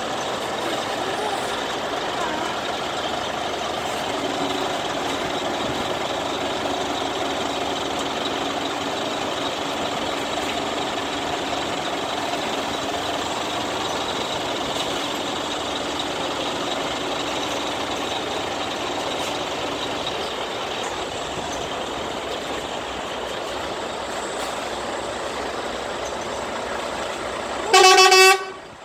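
Steady noise of trucks running in a passing procession. Near the end comes one short, loud blast of a truck horn that stops abruptly.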